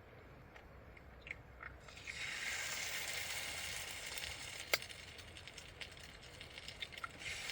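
Food sizzling in a hot frying pan, a hiss that swells for a couple of seconds, fades, then picks up again near the end, with a single sharp click in the middle.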